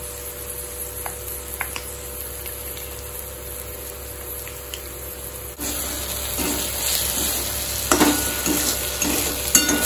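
Onions and ginger-garlic paste frying in oil in a kadai: a sizzle that gets suddenly louder a little over halfway through. A metal spatula scrapes and knocks against the pan a few times near the end as the mixture is stirred.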